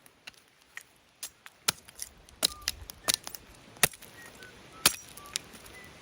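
Campfire of half-burnt scrap wood crackling, with irregular sharp pops, a few of them much louder than the rest. Short, thin whistling tones come through now and then in the second half.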